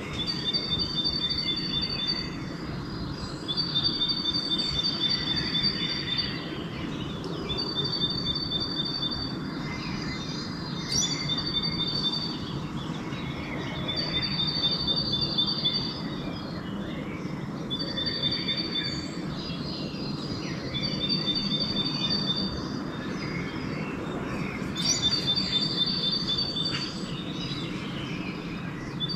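A small bird repeating a high, even trill, each phrase about two seconds long and coming about every three to four seconds, with a few other faint chirps between, over a steady low rumble of background noise.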